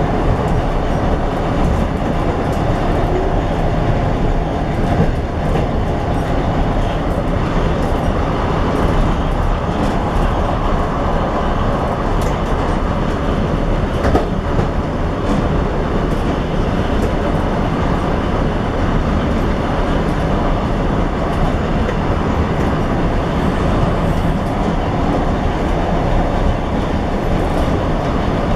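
A train running at speed, heard from its last carriage: a steady rumble of wheels on the track with scattered clicks and clacks, and one sharper knock about halfway through.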